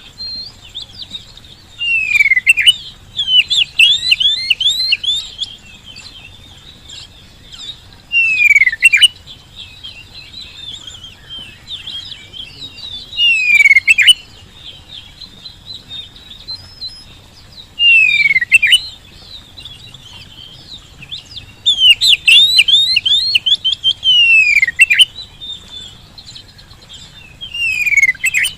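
Oriental magpie-robin (kacer) singing vigorously: loud phrases that open with a falling whistle and break into a burst of quick chattering notes, repeated about every five seconds.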